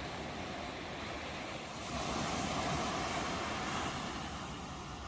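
Ocean waves on a shore: a steady wash of surf that swells louder about two seconds in as a wave comes in, then eases off.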